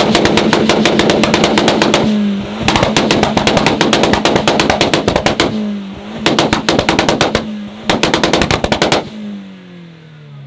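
A modified car's engine held on a two-step launch-control rev limiter, its exhaust firing rapid bangs, about ten a second, in four bursts. About nine seconds in the throttle is released and the revs fall away.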